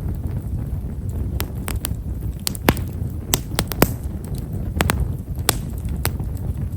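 Campfire of himeshara (Japanese stewartia) firewood crackling: about a dozen small, sharp pops at irregular intervals over a steady low rumble. The pops are fine and fairly quiet, typical of this wood.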